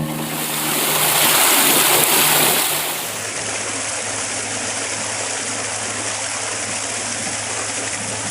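Rushing water, loud for the first three seconds and then a steadier hiss, with a low steady motor hum under it from about three seconds in.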